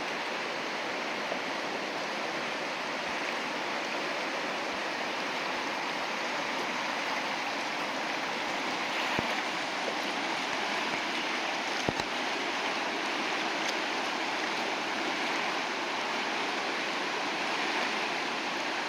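River rapids rushing steadily as whitewater, with a few brief faint knocks about nine, twelve and thirteen and a half seconds in.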